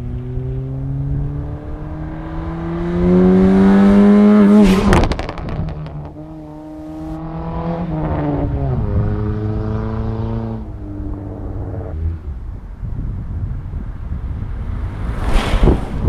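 Chevy S10's stock 2.2-litre four-cylinder through a full custom exhaust, accelerating hard with the engine pitch climbing, breaking off about five seconds in, climbing again and dying away about twelve seconds in. A brief loud rush of noise comes near the end.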